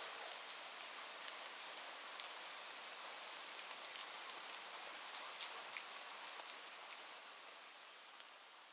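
Steady rain with many individual drops ticking, dropping slightly in level near the end.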